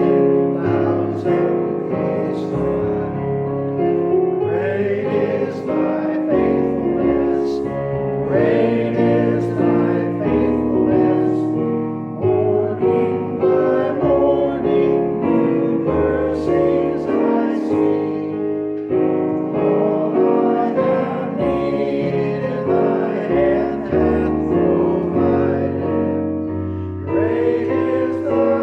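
Voices singing a hymn with piano accompaniment: sustained chords with a melody line over them.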